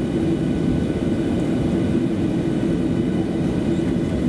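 Steady cabin rumble inside a Boeing 737 on the ground after landing, with the engines running at idle, and a constant hum carrying a steady mid-pitched tone.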